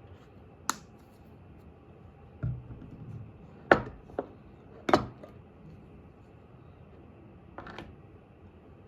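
Scattered sharp knocks and clatters of kitchen work, about six in all, with two loud ones around the middle and a duller thud before them.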